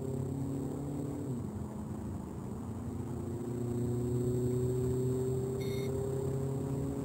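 Škoda Octavia 1.6 TDI four-cylinder turbodiesel under full-throttle acceleration, heard from inside the cabin: the engine note climbs slowly, drops with a quick upshift of the DSG dual-clutch gearbox about a second in, then climbs again. A short electronic beep sounds about five and a half seconds in, as the car passes 100 km/h.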